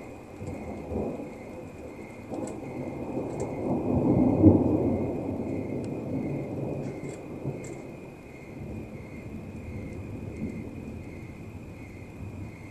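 Rolling thunder rumbling low, swelling to its loudest about four and a half seconds in and then fading slowly into a weaker, drawn-out rumble.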